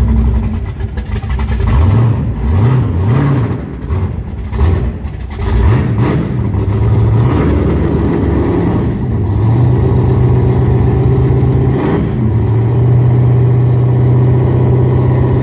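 1968 Ford Mustang's 302 small-block V8, still cold after starting, idling with a series of quick throttle blips a few seconds in, then settling back to a steady fast idle.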